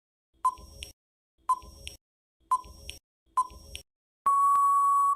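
Countdown timer sound effect: four short electronic beeps about a second apart, then one longer, steady beep of about a second near the end, marking that the answer time is up.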